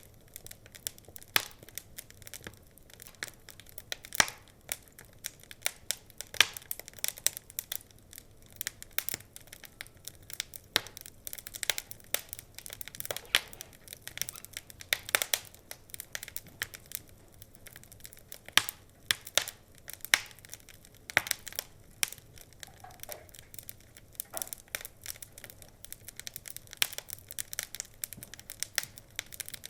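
Wood fire crackling and popping in a fireplace: irregular sharp snaps and pops, several a second, over a soft hiss.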